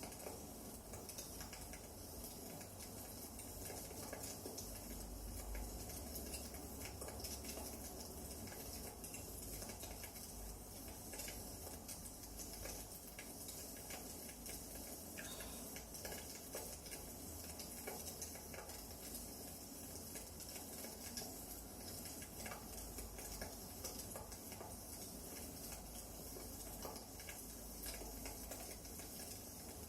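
Firewood burning in a fireplace, crackling: a steady faint hiss with many small scattered pops and ticks.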